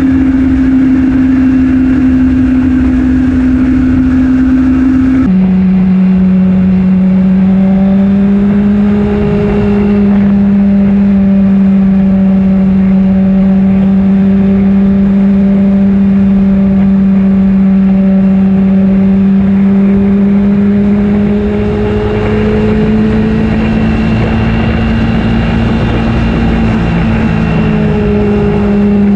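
2008 Honda CBR600RR's inline-four engine running steadily while riding, with a sudden drop in pitch about five seconds in as it shifts up a gear; after that it holds a steady pitch with small rises and falls.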